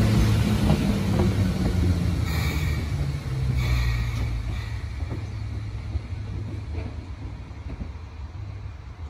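Hakone Tozan Railway 1000-series electric train running past and away, its low rumble fading steadily as it recedes. Two brief high squeals come about two and three and a half seconds in.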